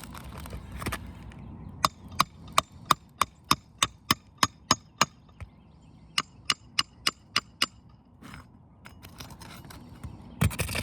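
Rapid sharp taps, about three a second: a run of about ten, a short pause, then five or six more. These are hammer taps working a roofing nail out of an asphalt shingle, where the nail went straight through the shingle.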